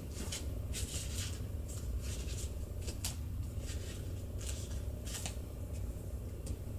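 Light rustling and soft taps of craft leaves being handled and pressed onto a glued paper plate, in short scattered bursts over a low steady hum.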